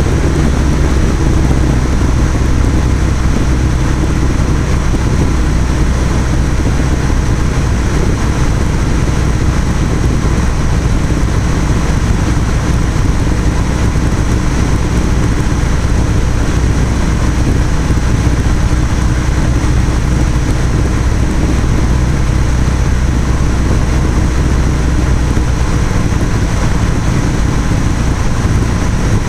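Cessna 172's piston engine and propeller droning steadily under a constant rush of noise, with no change in pitch or level.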